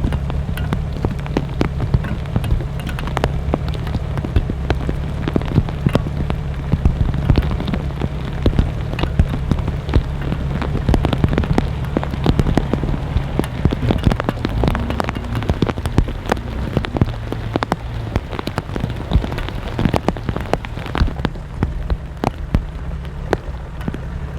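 Heavy rain falling, with a dense patter of close drops striking a surface as sharp ticks over a steady low rumble.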